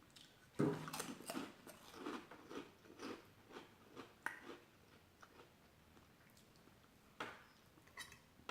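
A person biting into food and chewing close to the microphone: a bite about half a second in, about four seconds of chewing, then a pause and a few more mouth clicks near the end.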